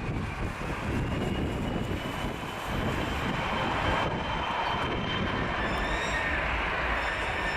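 Jet engine whine from a regional jet on the ground, getting louder about three seconds in, over low wind rumble on the microphone.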